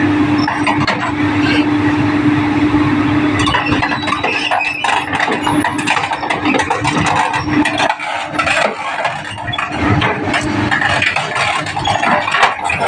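Excavator's diesel engine running with a steady hum, then heavy irregular clanking and rattling of metal from about three and a half seconds in.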